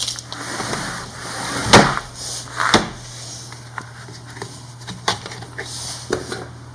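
Sliding double-glazed window sashes being opened and shut: a sliding scrape, then two sharp clacks about a second apart, with a few lighter clicks later.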